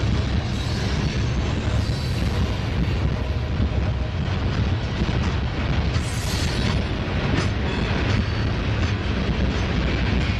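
Freight cars (gondolas and covered hoppers) rolling past: a steady rumble of steel wheels on rail. A brief brighter rattle comes about six seconds in.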